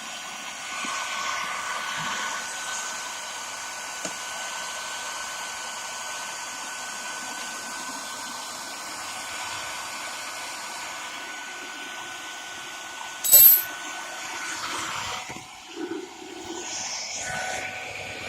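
Hair dryer blowing steadily with a thin steady whine, heating a headlamp lens to soften its adhesive. A single sharp click comes about thirteen seconds in, and the blowing turns uneven near the end.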